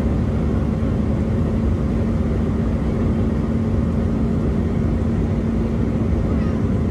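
Steady cabin noise inside an Embraer E175 airliner in flight: the drone of its two turbofan engines and the rush of air past the fuselage, with a constant low hum.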